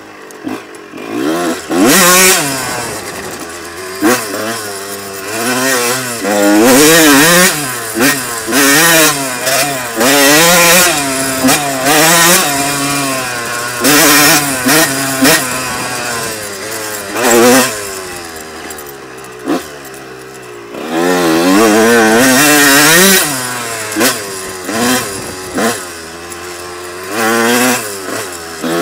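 1994 Honda CR125's single-cylinder two-stroke engine, ridden hard on a motocross track: the pitch rises and falls again and again as the throttle is opened wide and backed off.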